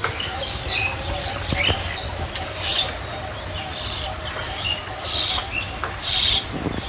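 Birds chirping, with many short high chirps scattered through and a few louder ones near the end, over a steady low rumble.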